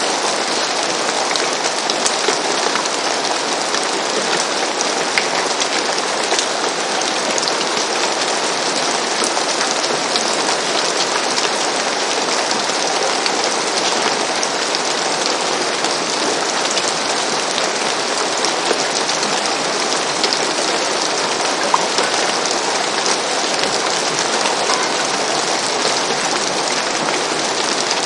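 Steady rain falling on a roof: an even hiss with scattered, sharper drop ticks.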